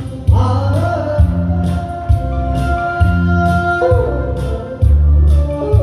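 A singer holds long, wavering notes of a Korean popular song over a recorded backing track with a steady bass beat.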